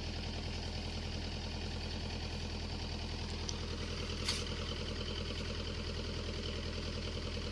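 Mini excavator's diesel engine idling steadily, with a single brief sharp knock about four seconds in.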